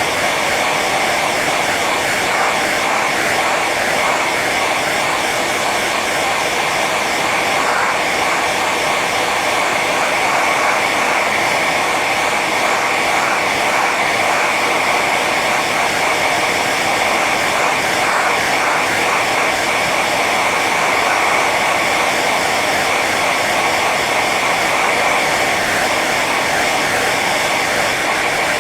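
Hair dryer running continuously on its high setting: a steady rush of air with a whine near the top of its noise.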